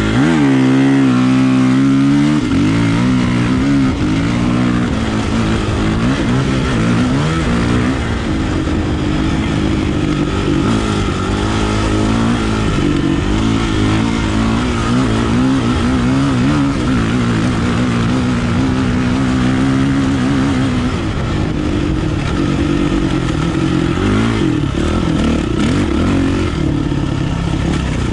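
Kawasaki KLX450R dirt bike's single-cylinder four-stroke engine being ridden hard, its pitch rising and falling again and again as the throttle is opened and closed through the gears.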